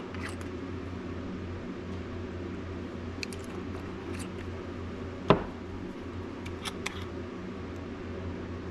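Light clicks and one sharp knock about five seconds in, from glitter being added and worked into a cup of hot plastisol, over a steady low electrical hum.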